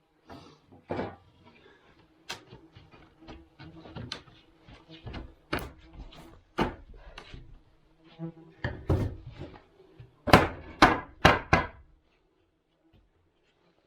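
Irregular knocks, scrapes and clatter of wood being handled and struck during carpentry work. Four loud blows come in quick succession near the end, then it stops.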